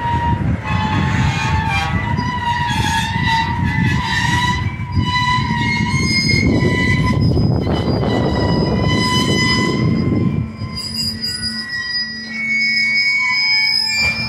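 A train rolling past with its wheels squealing on the rails: several high, wavering squeal tones over a heavy low rumble of wheels on track. The rumble drops off about ten seconds in while the squeal carries on.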